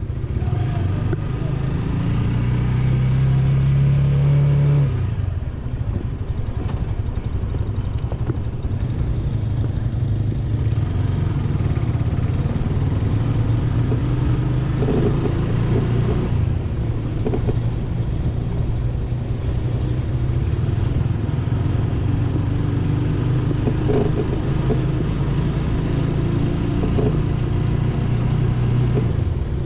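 AKT GP 180 motorcycle engine running under way, its steady note louder for a few seconds before dropping off about five seconds in, then holding steady.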